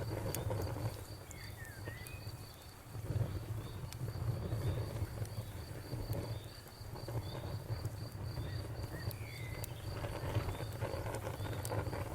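Crickets chirping steadily at about three chirps a second over a crackling bonfire, with scattered sharp pops and a low rumble that swells and fades.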